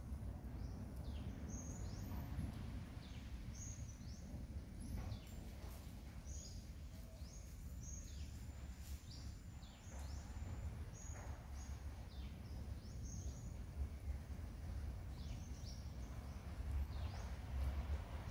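Small birds chirping repeatedly in short, high notes that fall quickly in pitch, over a steady low rumble.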